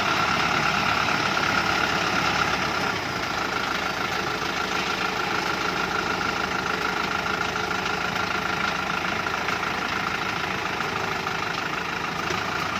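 Dongfeng truck's diesel engine idling steadily, dropping a little in level about three seconds in.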